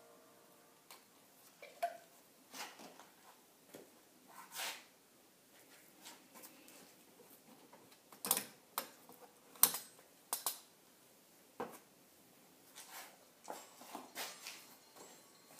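Irregular clicks and light knocks, a dozen or so, like hand tools and small metal parts being handled, the sharpest about eight and nine and a half seconds in.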